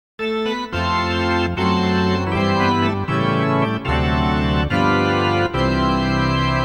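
Ballpark organ playing a run of held chords, with a new chord about every second.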